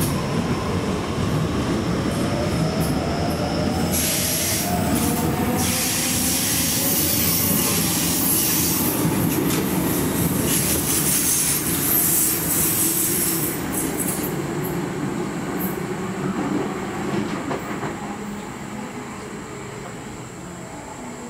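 Sydney Trains electric suburban train running through the station: a rumble of wheels with a motor whine that glides in pitch, and a high squeal from the wheels from about four seconds in until about fourteen. The sound then fades as the train moves away near the end.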